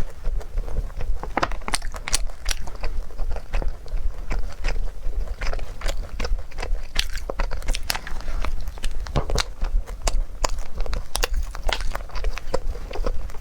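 Close-miked mukbang eating: a person biting and chewing food with irregular crunches and crackles, several a second, over a steady low hum.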